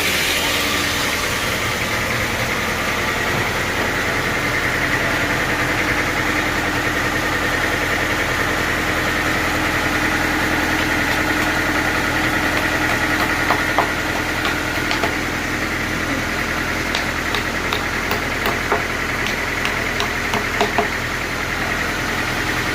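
Sawmill machinery running steadily, an engine-like hum with a constant whine over it. Scattered sharp clicks and knocks come in the second half.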